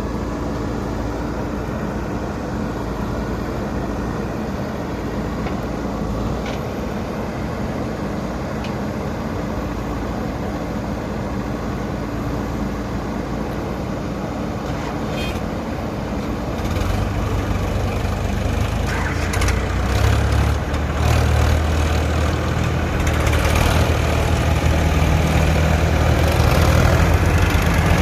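JCB 3DX Super backhoe loader's diesel engine running. About two-thirds of the way in, a stronger, deeper engine hum sets in and grows louder toward the end, as the engine is worked harder.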